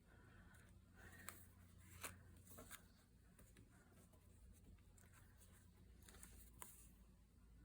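Near silence: low room hum with a few faint, short clicks.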